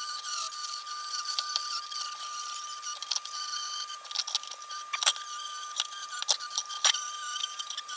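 Rotary tool running a pointed abrasive bit against the lantern's sheet metal: a steady high whine with a scratchy hiss and scattered sharp clicks, two louder ones about five and seven seconds in.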